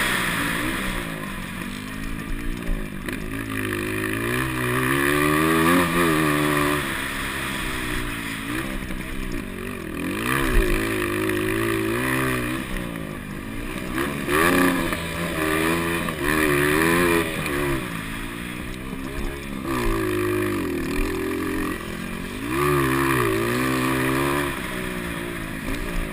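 Motocross motorcycle engines racing, revving up and dropping back again and again in pitch as the throttle is opened and closed, with more than one bike heard at times.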